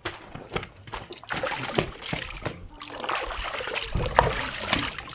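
Water being poured over a dog to rinse it, splashing and trickling, starting in earnest about a second in.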